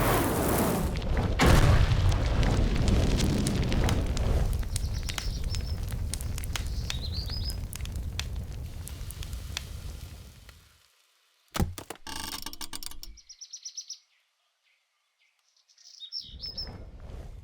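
Cartoon explosion sound effect: two heavy booms a second or two apart, then a long rumbling decay scattered with small crackles and debris, fading out over about ten seconds. Bird chirps sound through the fading rumble and again near the end.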